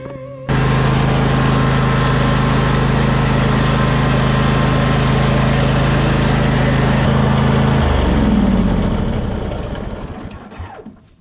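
A motor running steadily at one constant pitch, starting abruptly, then slowing about eight seconds in and dying away.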